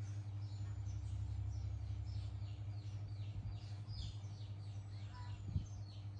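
Small birds chirping over and over in quick, short downward-sliding notes, over a steady low hum. One soft knock comes about five and a half seconds in.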